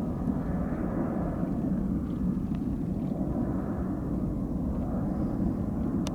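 Boeing 737-500's CFM56 turbofan engines giving a steady low jet rumble during takeoff, swelling and easing slightly.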